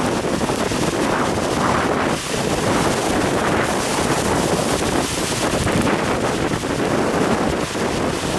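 Strong typhoon wind buffeting the microphone in a steady loud rush, over heavy swell surging and breaking at a harbour.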